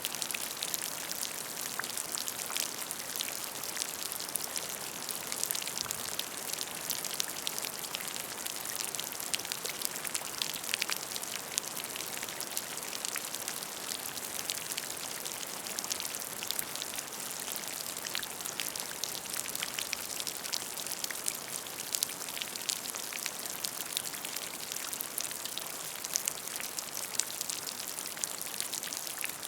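Steady rain falling on a puddle of water: a continuous hiss of many drops, with countless small, sharp splashes and plinks.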